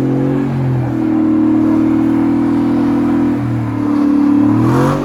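A vehicle engine held at high revs, dipping slightly once or twice and then climbing near the end.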